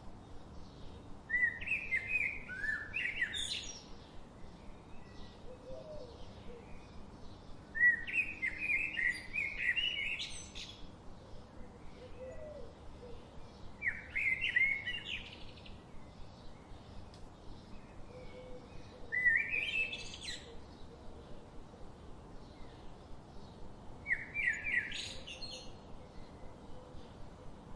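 A songbird singing a short, complex phrase of about two seconds, repeated five times at intervals of roughly five to six seconds. Fainter, quick chirping runs underneath between the phrases.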